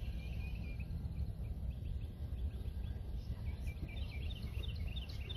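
Small birds chirping in quick, short, high notes, growing busier about halfway through, over a steady low rumble.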